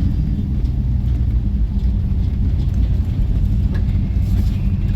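Steady low rumble of a vehicle running at slow speed, engine and road noise with no change in pace.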